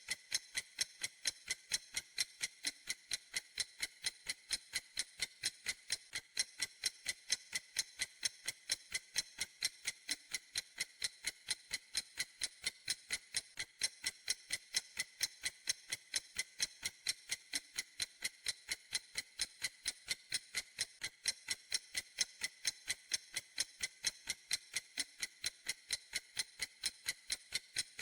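Clock ticking steadily: crisp, high-pitched ticks evenly spaced, a few per second, with no pauses or changes.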